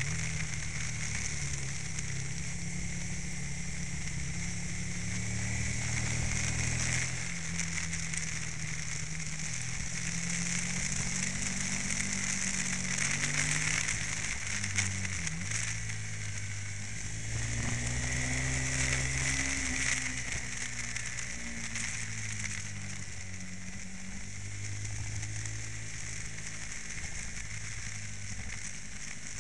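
Aprilia motorcycle's engine heard from a camera mounted on the bike while riding. Its pitch rises and falls with the throttle, under a steady crackling rush of wind noise on the microphone.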